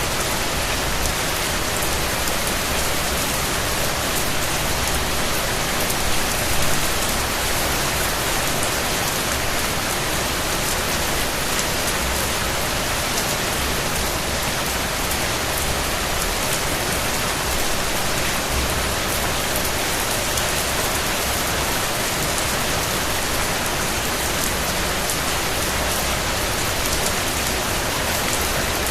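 Steady rain falling on a surface, a dense, even patter of raindrops, with a brief slightly louder splash about six and a half seconds in.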